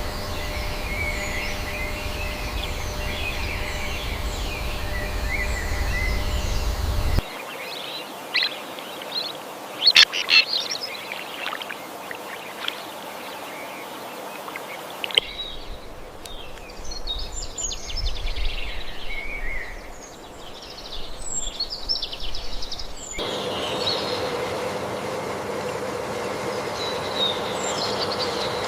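Outdoor ambience with birds chirping, cut together from several recordings so the background changes abruptly three times. A low rumble sits under the first and third parts, and a few sharp clicks come about ten seconds in.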